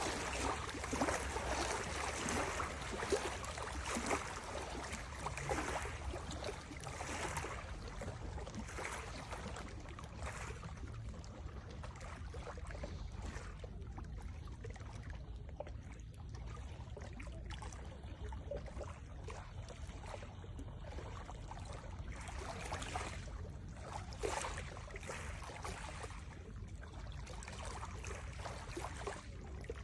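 Small waves lapping and splashing irregularly at a lake's edge, busier in the first several seconds and again a little after the middle, over a steady low rumble.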